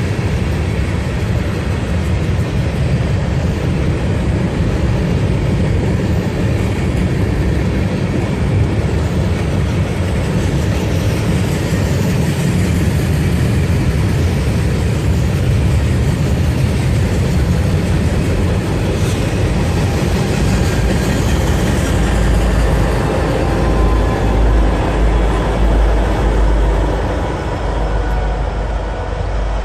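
Freight train rolling past: a steady, loud rumble of railcars on the rails, with a deeper low rumble swelling for several seconds near the end.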